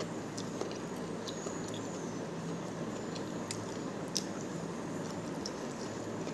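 Mouth and eating noises from a person eating rice and chicken by hand: small scattered clicks and smacks of chewing and fingers in the food, the sharpest about four seconds in, over a steady background hiss.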